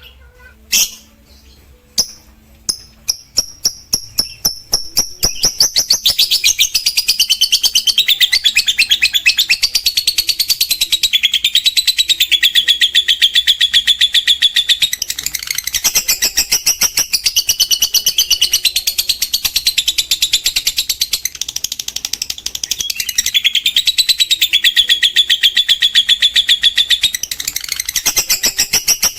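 Lovebird's long ngekek chatter. A few separate sharp chirps come faster and faster, then about six seconds in they merge into a very fast, unbroken chattering trill of high notes, which falters briefly twice.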